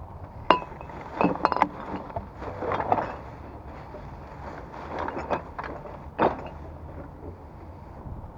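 Glass bottles and other litter clinking and knocking as they are handled and dropped into a rubbish bag. There are several sharp clinks in the first three seconds, then more around five and six seconds in.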